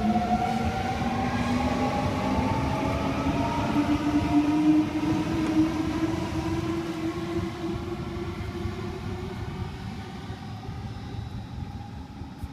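Sydney Trains Millennium (M-set) electric train pulling out of the station: its traction motors whine, rising slowly and steadily in pitch as it accelerates, over a rail rumble that fades as the train moves away.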